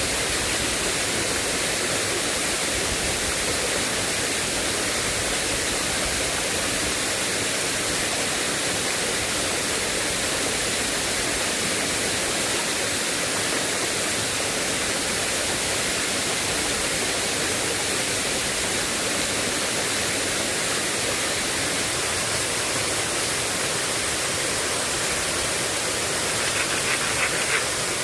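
Heavy rain falling steadily with an even hiss, with a short run of quick taps or clicks about a second before the end.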